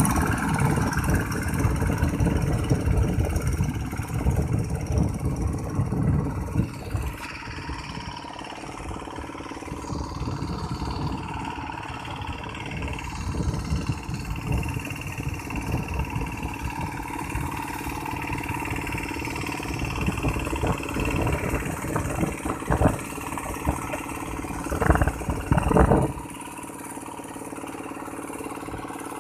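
Tractor engine running, its loudness rising and falling, louder for the first few seconds and again in two short spells near the end. About 26 seconds in, the deep rumble drops away suddenly.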